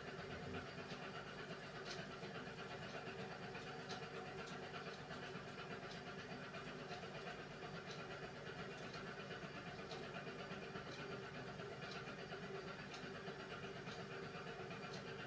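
Beko WMY81283LMB2 washing machine running a 30 °C hand wash cycle: a steady low hum with faint, scattered light ticks.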